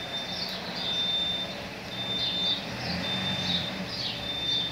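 A bird's call repeated at a steady pace, roughly every second and a bit: a couple of quick high chirps followed by a held, steady high whistle.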